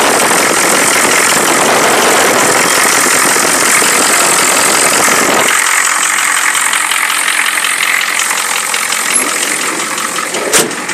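1984 Ford 6.9-litre V8 diesel running through a 5-inch straight pipe with a steady diesel clatter, fuller and louder for about the first five seconds, then settling to a lighter sound. A single sharp click near the end.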